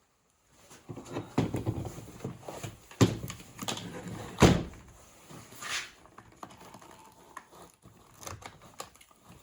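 A run of knocks and clunks as plastic scrubber parts are handled, with two sharp, louder thuds about three and four and a half seconds in, in a small room.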